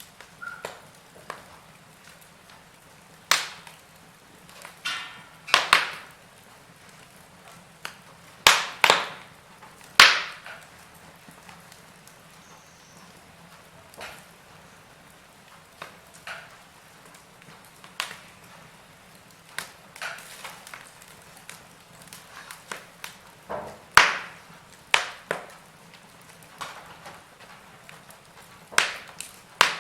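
Wood fire crackling in a fireplace: irregular sharp pops and snaps, a few of them loud, over a faint steady hiss.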